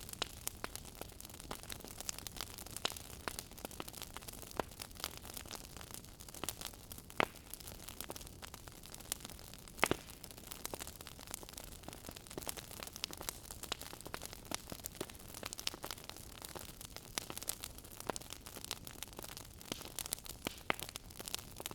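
Wood fire burning in a fireplace, crackling with many small irregular pops over a soft hiss. A few sharper snaps stand out, about seven and ten seconds in.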